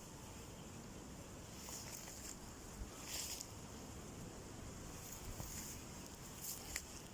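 Faint outdoor ambience: a low wind rumble on the microphone with brief high hissing bursts every second or two.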